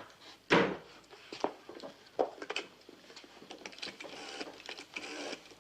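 A run of irregular mechanical clicks and rattles from a telephone being picked up and dialled, with a sharper knock about half a second in.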